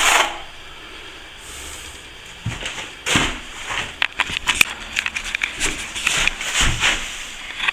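Steel plastering trowel scraping and tapping over a wet finish coat of plaster as it is polished. Irregular short strokes and clicks start about two and a half seconds in, after a quiet stretch.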